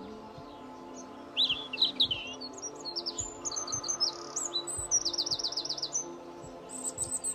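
Small songbirds chirping and trilling, starting about a second and a half in, with a quick run of repeated notes near the middle. Soft sustained background music hums underneath.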